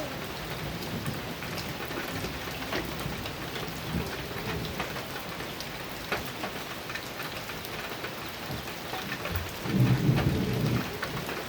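Heavy rain falling on a metal roof, a steady hiss scattered with sharp individual drop hits. A short, louder low rumble of thunder comes near the end.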